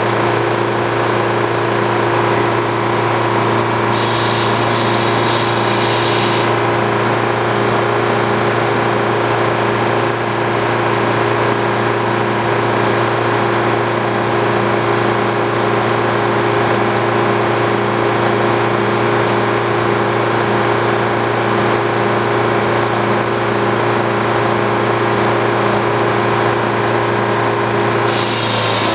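The engine and machinery of an old Frick sawmill running steadily at constant speed. A higher hiss is added about four seconds in for a couple of seconds, and again near the end.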